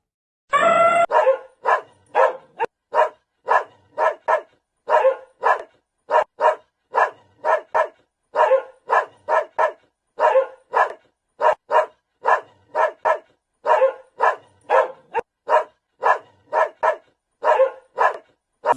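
A dog barking over and over in short, sharp barks, about two a second and often in pairs.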